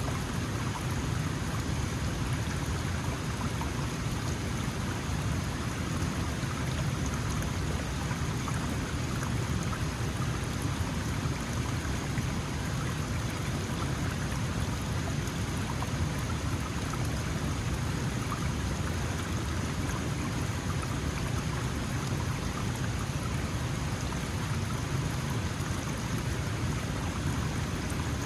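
Small mountain stream flowing steadily, an even rush of water over stones with fine splashing and trickling.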